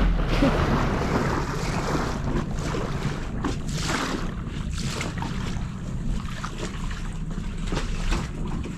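A small tender's outboard motor runs steadily under way, with water rushing and splashing against the hull and wind buffeting the microphone.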